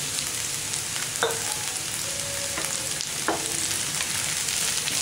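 Par-boiled potato cubes sizzling in hot oil in a pan with onions, stirred with a wooden spatula that scrapes the pan twice, about a second in and about three seconds in.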